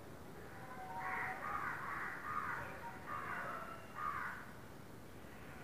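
A bird calling harshly, about five calls in a row starting about a second in.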